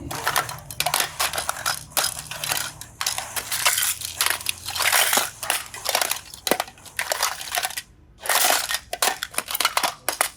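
Slime being squeezed and crushed by hand, with a dense, irregular crackling and crunching and a brief pause about eight seconds in.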